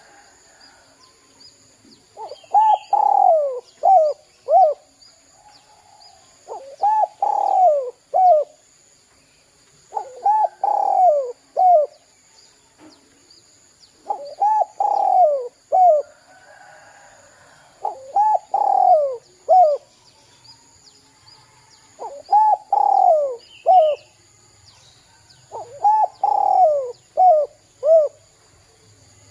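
Spotted dove (derkuku) cooing in its 'kuk 2' pattern: a falling coo then two short 'kuk' notes. The phrase repeats seven times, about every four seconds, with a faint steady high whine underneath.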